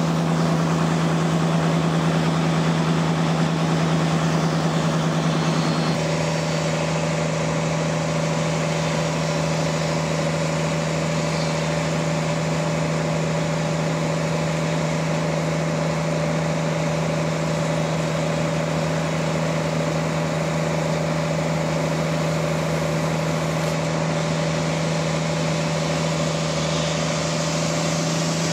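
Sawmill running: a steady engine hum with a constant hiss over it. About six seconds in the sound shifts slightly and a higher steady tone joins, then it runs on evenly.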